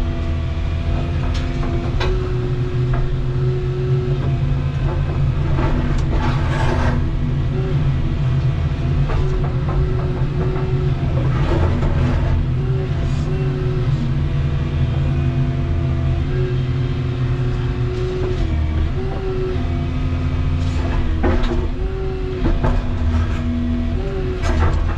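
Volvo 235EL excavator running steadily under load, its hydraulic whine stepping up and down in pitch as it works. Several sharp cracks and knocks come through, the sound of the machine breaking down a concrete wall.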